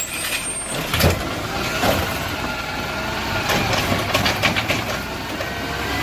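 Garbage truck engine running steadily, with a faint whine and several sharp knocks and clanks along the way.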